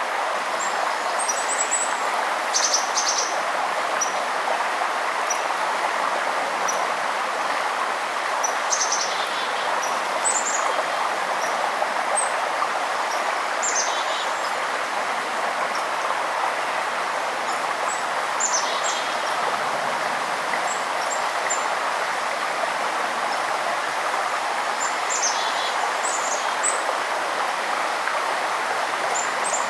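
River water flowing steadily, with small birds calling over it in short, high chirps, some falling in pitch, every few seconds.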